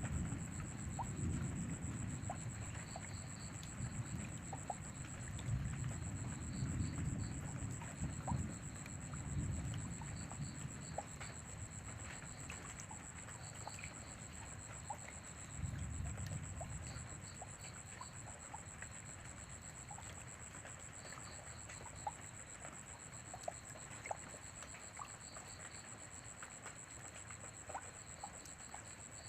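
Rain falling with scattered drops, and low thunder rumbling through the first half that fades, then rolls briefly again about halfway through.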